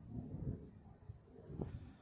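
Wind gusting across the microphone, an uneven low rumble that swells and drops.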